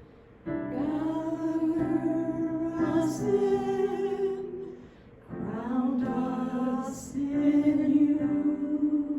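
Slow music with a voice singing two long phrases of held notes, the second starting about five seconds in after a short breath.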